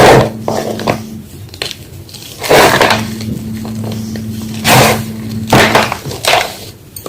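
Homemade gym chalk block being crushed, a series of loud, dry crunches a second or two apart, some short and some drawn out over about half a second.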